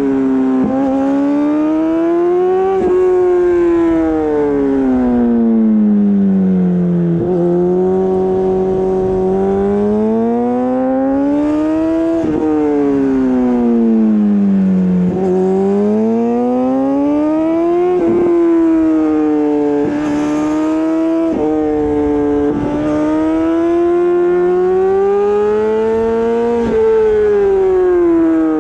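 Honda CBR600RR inline-four through an Akrapovič exhaust, ridden along a road. The engine note repeatedly climbs under acceleration, breaks sharply at gear changes, then falls away as the throttle is rolled off, rising and falling every few seconds.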